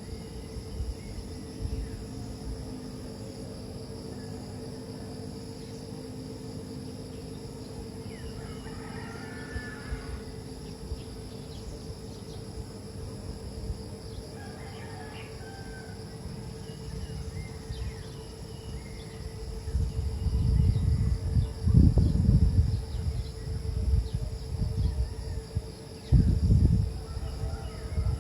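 Outdoor ambience of insects droning steadily, with a few short bird chirps. About two-thirds of the way in, several loud, low rumbling bursts come and go for some seconds.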